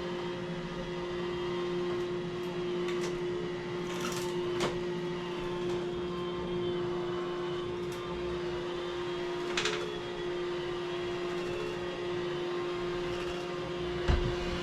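Vacuum cleaner running with a steady motor hum, with a few light clicks or knocks over it and a low thump near the end.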